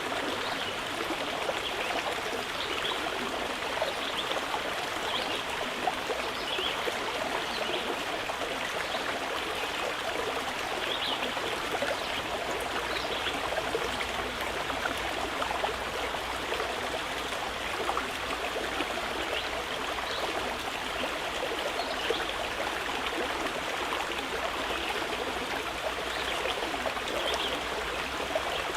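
Mountain river flowing steadily, an even continuous sound of running water.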